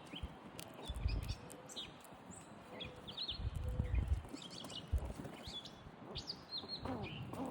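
Small birds chirping, short high chirps scattered throughout, with a few low bumps. Near the end comes a lower, rougher bird call.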